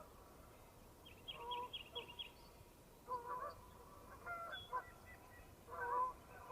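Geese honking, with separate calls coming every second or two and the loudest near the end. A quick run of about six short, higher chirps comes about a second in.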